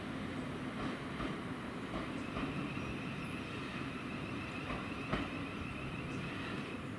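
A train running, a steady rumble with a faint high-pitched tone and a few light clicks.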